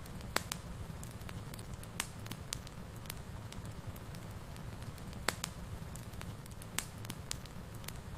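Wood fire burning in a fireplace: a steady low rumble of flames with scattered crackles and a few sharp pops, about four loud ones spread through.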